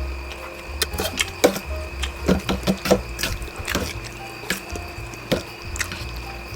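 Close-up wet slurping and chewing of instant noodles, a string of short smacks and clicks, over quiet background music.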